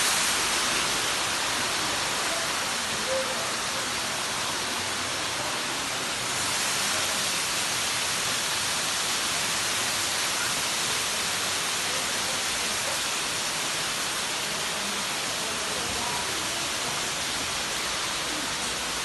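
Waterfall rushing: a steady hiss of falling water, growing a little louder about six seconds in.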